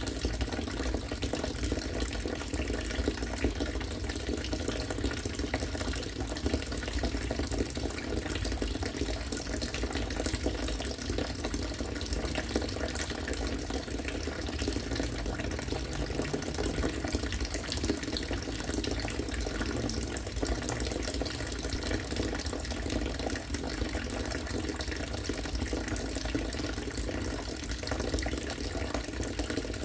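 A steady stream of rainwater from a catchment falling and splashing into water, with a continuous bubbling rush.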